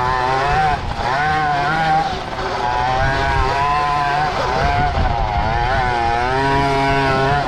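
KTM 50-knockoff carbureted two-stroke single in a pocket bike, ridden hard with the throttle opened and eased over and over, so its pitch keeps rising and falling with short dips.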